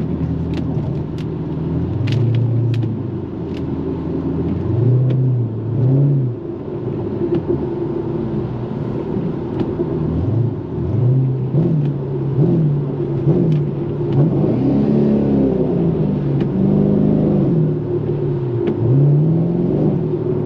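2013 Chevrolet Camaro SS's 6.2-litre V8 running while driving, its note climbing and dropping several times as the revs rise and fall.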